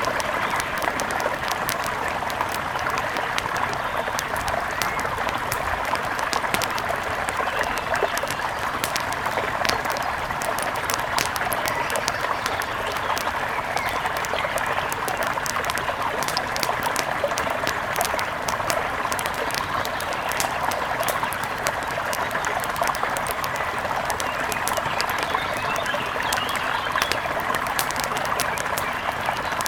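Steady rush of a mountain river, with the frequent small crackles and pops of a wood fire over it.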